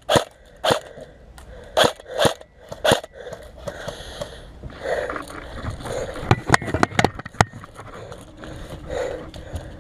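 A series of sharp snaps or cracks: about five, half a second apart, in the first three seconds, then four more in quick succession a little past the middle, over a low rustling noise.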